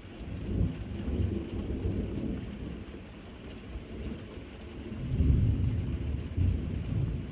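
Steady rain falling during a thunderstorm, with low rolling thunder rumbling twice, the second rumble louder, about five seconds in.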